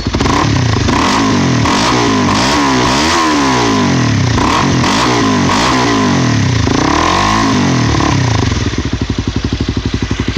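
2012 Honda CBR250's single-cylinder engine through a Yoshimura slip-on exhaust with its silencer insert fitted, revved up and down repeatedly with throttle blips, then dropping back to a steady idle about eight seconds in.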